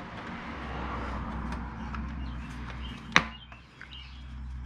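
Handling noise from engine parts being fitted by hand: rustling and small ticks, with one sharp click about three seconds in.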